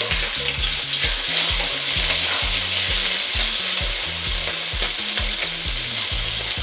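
Olive oil sizzling in a nonstick wok as a little minced seasoning fries in it, with a wooden spatula stirring and scraping it around the pan.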